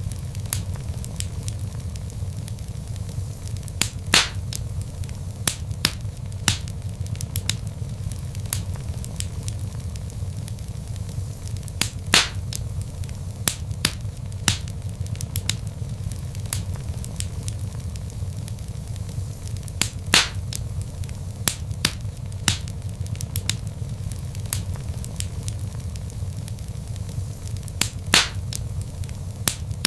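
Wood logs burning in a fireplace: a steady low rumble of flames with frequent sharp crackles. A few louder pops stand out, spaced several seconds apart.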